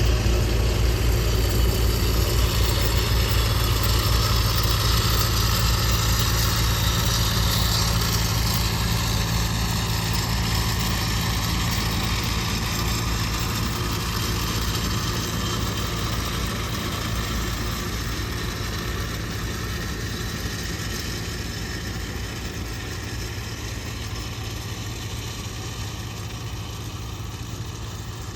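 Scania S650 heavy-haul truck's V8 diesel engine running steadily at low revs. It grows gradually quieter throughout.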